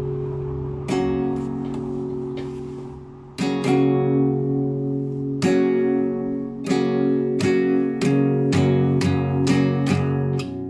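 Solo acoustic guitar, chords plucked or strummed and left to ring. There are a couple of widely spaced chords at first, then a steadier series of chords from about halfway through.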